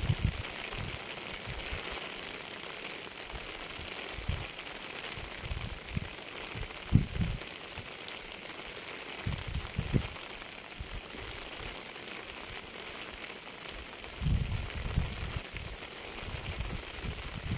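Steady rain hiss, with irregular low thumps standing out from it, the loudest about seven and ten seconds in and a run of them near the end.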